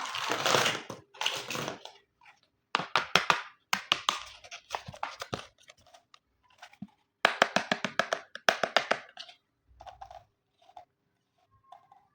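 Plastic toy packaging and pieces being handled for an unboxing, crinkling and clicking in several bursts separated by short pauses.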